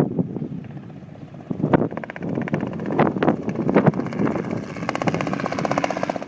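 Helicopter rotor beating rapidly, with gusts of wind buffeting the microphone; the fast, even blade chop grows more distinct from about two seconds in.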